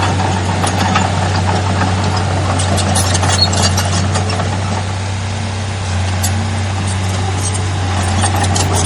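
Heavy diesel earthmoving machinery engine running steadily at a low, even drone, with scattered light clicks over it.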